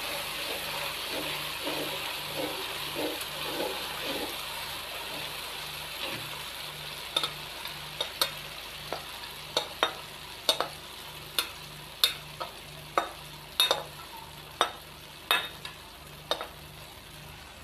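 Milk-soaked semolina being poured into hot ghee and melted sugar in an aluminium kadai, sizzling steadily and slowly dying down as it cools the fat. From about seven seconds in, a metal spatula stirring the mix knocks against the pan about once a second.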